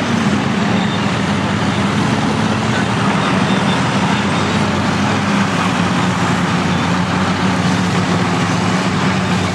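Heavy vintage earthmoving machinery, bulldozer or crawler-tractor engines, running steadily and close by. The low engine note sags a little midway and picks up again near the end.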